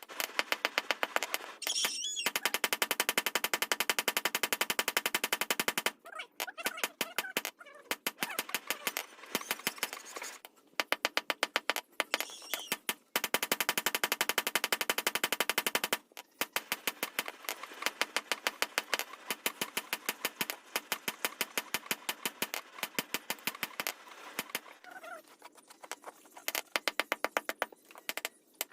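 Rapid, evenly spaced hammer blows on steel while a dao blade is being forged, several strikes a second in long runs with brief pauses between them.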